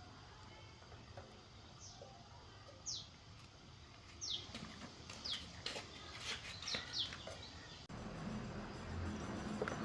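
Small birds chirping: a handful of short, high chirps that fall quickly in pitch, with a few light clicks among them. About eight seconds in, the background changes to a low steady hum.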